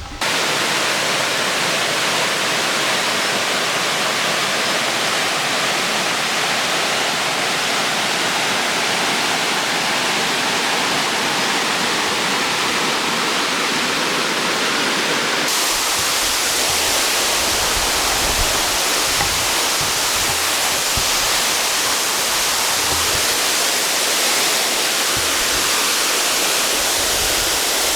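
Nyauli Jharna waterfall: rushing, falling water making a steady, dense roar, which brightens and gains some low rumble about halfway through.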